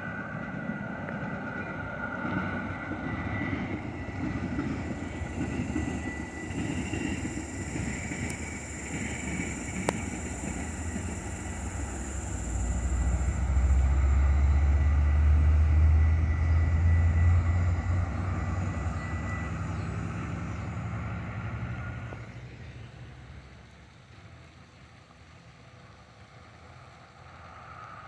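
Metra commuter train passing: a steady rumble that swells to its loudest, deep low rumble about halfway through, then fades away over the last few seconds.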